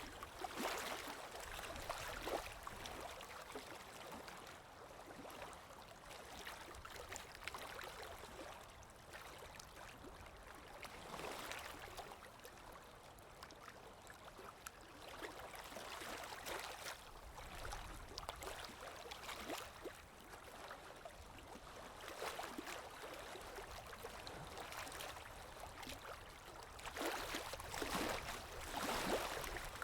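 Water lapping in small waves, with a soft wind; the lapping swells and fades every few seconds, and grows louder near the end.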